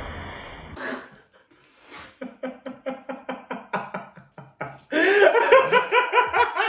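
Hard, helpless laughter in rapid rhythmic bursts, much louder from about five seconds in, after a few short noisy bursts at the start.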